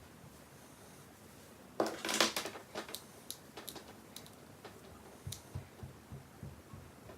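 Small handling noises: a brief rustle with clicks about two seconds in, then a scatter of light clicks and taps.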